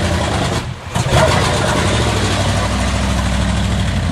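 GMC pickup's gasoline engine running as the truck drives through mud and water, with a short drop in sound just before a second in, then a sudden loud burst and steady low running after.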